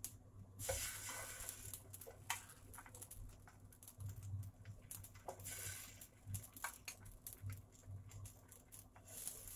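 Faint crackling sizzle of potato, carrot and egg batter frying in oil in a nonstick pan, coming in bursts, with a few light clicks of a metal spoon against a ceramic bowl.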